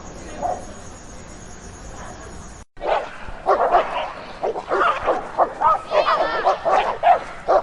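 Dog barking in a fast run of short, sharp barks and yips, several a second, starting abruptly after a brief dropout about three seconds in; before that there is only faint background noise.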